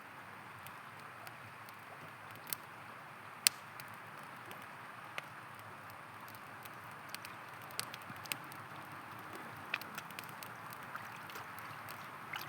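Steady rushing of a river, with the crackle and occasional sharp pops of a wood campfire. The loudest pop comes about three and a half seconds in.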